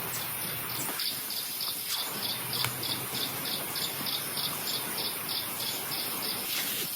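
An insect chirping in a fast, regular train of short high pulses, about four a second, starting about a second in, over a steady hiss of heavy rain in the forest.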